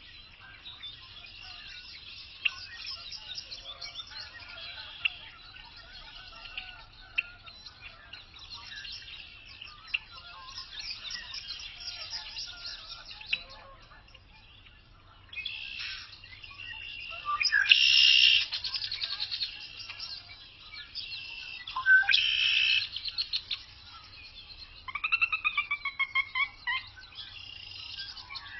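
Birds chirping and twittering continuously, with louder bursts of song at intervals and a run of repeated whistled notes about 25 seconds in.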